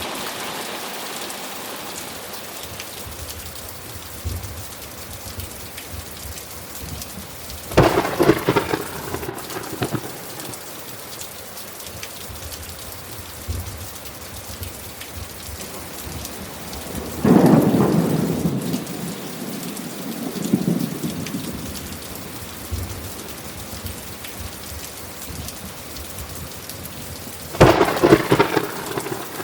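Steady rain falling throughout, with three peals of thunder: sharp crackling claps about eight seconds in and near the end, and a deeper, longer rumble about halfway through.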